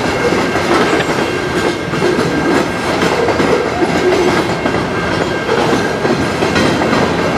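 Freight train of covered hopper cars rolling past: a steady, loud rumble of steel wheels on rail with repeated clicks as the wheels cross rail joints.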